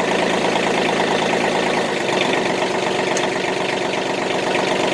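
John Deere 2520's 26 hp diesel engine idling steadily at about 950 rpm.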